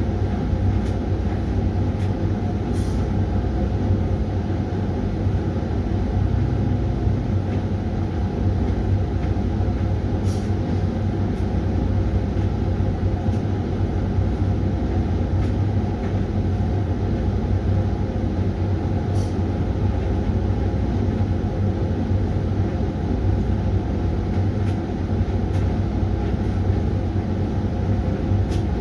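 Hoover washing machine running mid-way through its Refresh cycle: a steady low hum and rumble, strongest at the bottom, with a few faint clicks now and then.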